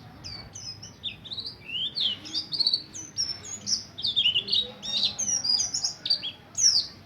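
Buxtoni white-eye (pleci) singing a fast, unbroken run of sharp, high, mostly falling chirps, the long rolling 'ngerol' song that keepers use to draw out other white-eyes.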